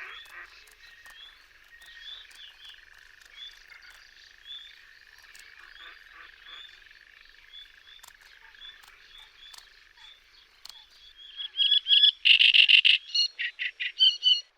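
Wetland chorus of frogs trilling steadily, with short repeated bird chirps over it. Near the end comes a loud, rapid series of sharp calls, which fits the alarm calling of a black-winged stilt defending its chicks from a marsh harrier.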